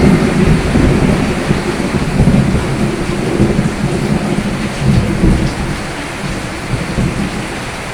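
Steady rain with a long, low rolling rumble of thunder that slowly fades.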